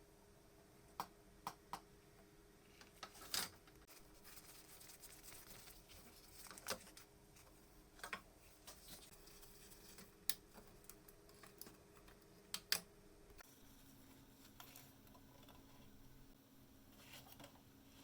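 Faint, scattered clicks and light taps from small parts and tools being handled, over a steady low hum that drops in pitch about thirteen seconds in.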